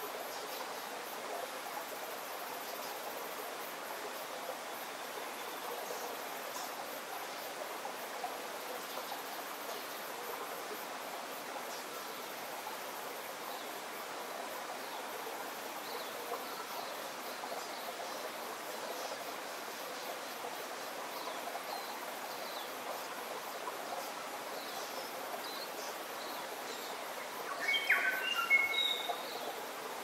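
Forest birds chirping faintly now and then over a steady background hiss. Near the end, one bird gives a louder call of several short, clear notes.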